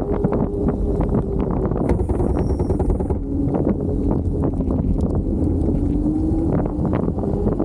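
Kaabo Wolf King GT Pro electric scooter on the move, with wind rushing over the microphone and many small rattles and knocks. Over this runs the motor's whine as one steady tone, which falls in pitch in the middle as the scooter slows and climbs again near the end.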